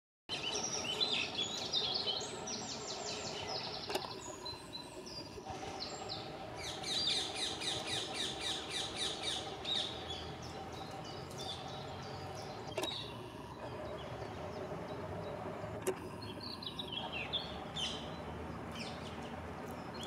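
Birds singing in bursts of rapid, repeated high chirps, over steady outdoor background noise.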